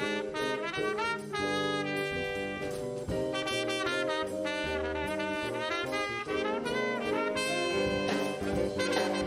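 A brass and saxophone ensemble playing a jazz-style piece, with horn lines moving through quick rhythmic notes and sustained chords.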